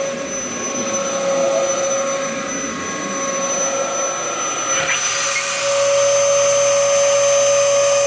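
Dyson DC07 upright vacuum cleaner running with a steady motor whine and rushing air. About five seconds in the airflow changes and the sound gets louder and hissier.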